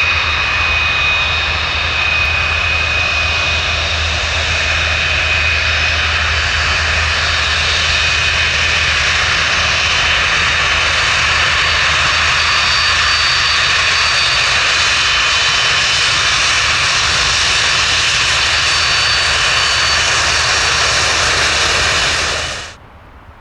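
Large jet airliner's engines running loud and steady, a rushing roar with a high whine over a low rumble, cutting off abruptly near the end.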